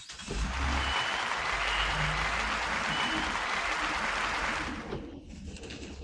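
A dense rushing noise that starts suddenly, holds for about four and a half seconds, then fades.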